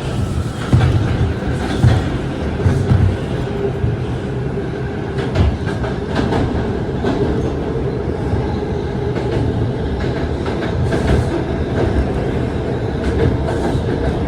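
R142 subway train running between stations: a steady rumble of wheels on rail, with irregular clicks as the wheels pass over rail joints.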